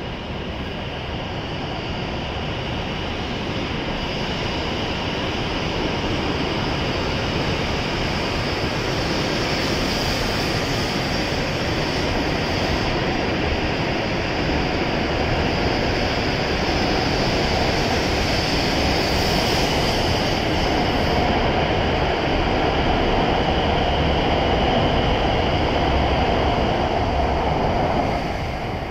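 W7 series Shinkansen train departing and gathering speed along the platform: a steady rushing running noise with a high whine that grows louder, then drops away near the end as the last car clears.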